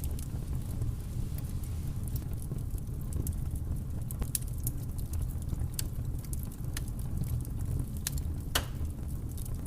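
Campfire crackling: scattered sharp pops and snaps of burning wood over a low steady rumble, with one louder pop about eight and a half seconds in.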